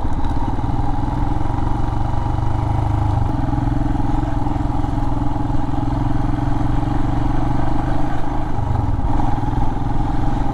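Royal Enfield Himalayan's single-cylinder engine running steadily while the motorcycle is ridden, its note stepping to a new pitch about three seconds in and again near the end.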